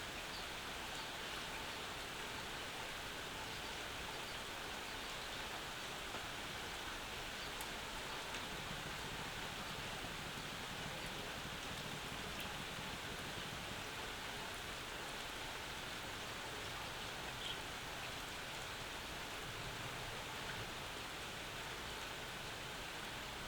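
Steady summer rain falling on a yard and roof, an even hiss with occasional individual drops ticking close by.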